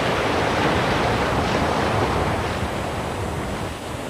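Sea surf washing against a rocky limestone shore: a steady rush of breaking water that eases slightly near the end.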